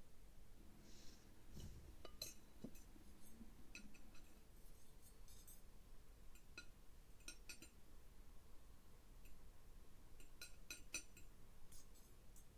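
Faint, scattered clinks of cutlery against dishes, some single and some in quick little clusters.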